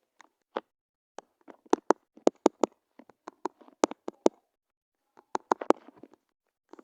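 Irregular sharp clicks and taps, coming in quick clusters with short pauses between.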